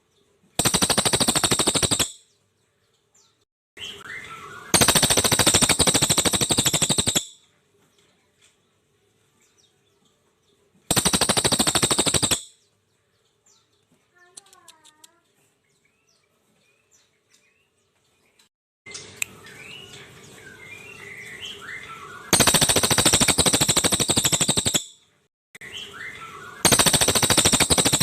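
Brown crested jay giving its dry, rapid rattling call, five rattles of about two seconds each, with faint short chirps between them.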